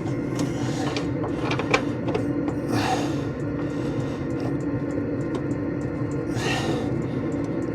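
Scattered small metallic clicks and taps as a bolt is threaded in by hand, over a steady hum. Two breathy rushes come about three seconds and six and a half seconds in.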